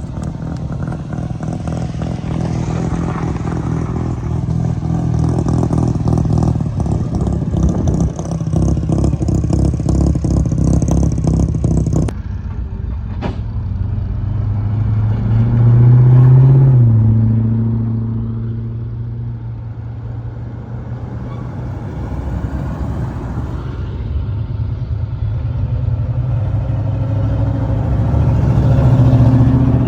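Car engines and exhausts as cars drive past one after another, each getting louder as it approaches and fading as it goes. A steady, rapidly pulsing engine sound gives way abruptly about twelve seconds in, and louder pass-bys follow, peaking a few seconds later and again near the end.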